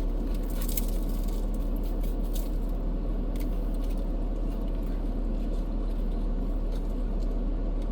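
Steady low rumble of a running vehicle, with a few soft clicks in the first few seconds.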